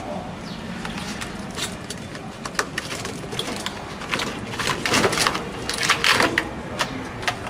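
Irregular clicks, taps and small rattles of washing-machine parts being handled and worked on by hand during a repair, busiest about five to six seconds in.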